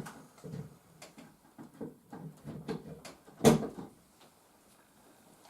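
A series of light knocks and rattles from a small plug-in power supply and its leads being handled and plugged in, with one sharper, louder knock about three and a half seconds in.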